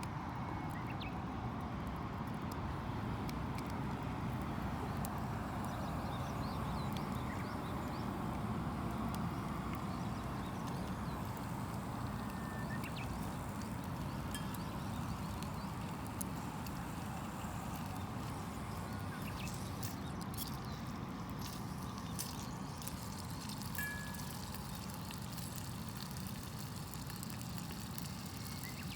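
Wood campfire burning with scattered faint crackles over a steady outdoor background hiss.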